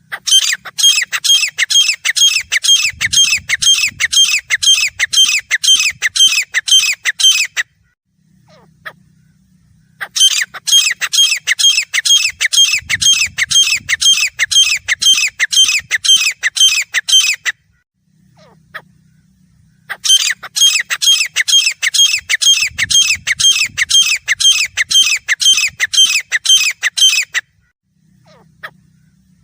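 Grey francolin calling: three bouts of rapid, high, repeated notes, each lasting about seven seconds, separated by short pauses.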